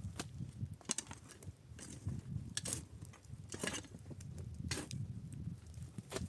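Footsteps crunching in snow, about one step a second, over a steady low rumble of wind.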